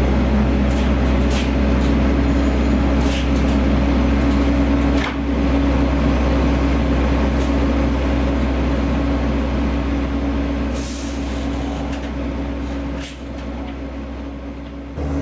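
Truck's diesel engine running steadily, a DAF XF105.460 with its PACCAR MX six-cylinder, with a short hiss of air a little before the end.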